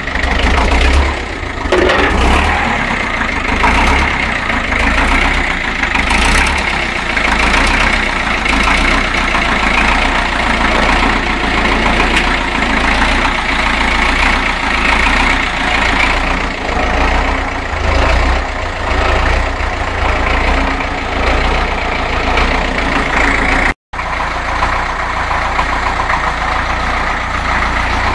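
A 1954 Ferguson TEF-20 tractor's four-cylinder diesel engine running steadily and cold, just after a winter cold start. The sound cuts out for an instant about 24 s in.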